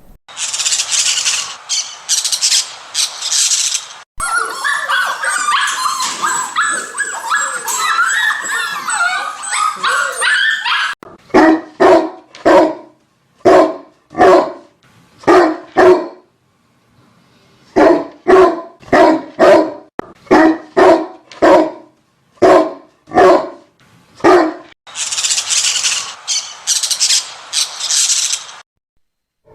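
A dog barking in two runs of short, evenly spaced barks, about one and a half a second. They are framed by bursts of hissing noise at the start and near the end, and a stretch of high chirping calls comes before the barks.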